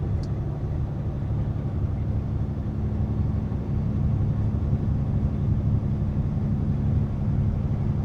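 Semi truck driving at a steady pace: a steady low engine drone with road noise, heard from inside the cab.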